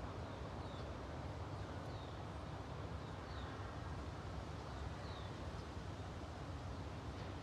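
A small bird giving short, downward-sliding chirps, about four of them spread across a few seconds, over a steady low outdoor rumble.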